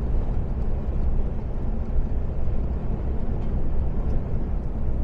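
Steady low rumble of an Iveco Stralis 510 truck cruising at about 87–90 km/h, with engine and road noise heard from inside the cab.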